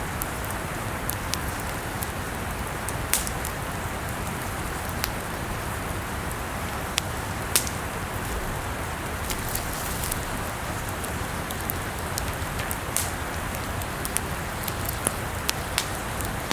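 Campfire burning: irregular sharp pops and snaps from the burning wood, scattered several to a second, over a steady rushing hiss.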